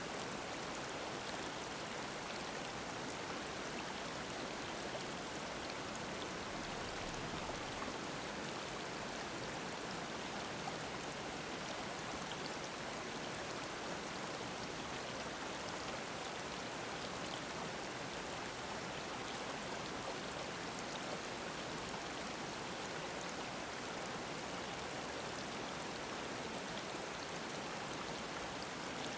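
Mountain stream babbling over rocks, a steady even rush of flowing water.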